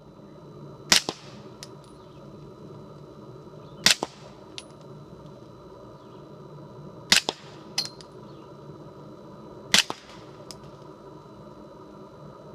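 Four suppressed 9mm pistol shots, about three seconds apart, from an HK VP9 fitted with a Liberty Mystic X silencer and firing 165-grain subsonic rounds. Each shot is a sharp report followed quickly by a fainter click.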